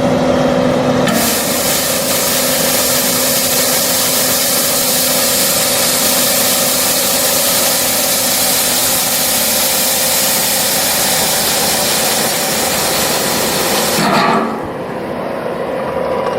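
Skid steer engine running while a rotating angle broom sweeps, its bristles making a loud, steady scraping hiss against the ground from about a second in. Near the end the sweeping noise stops and the engine runs on alone.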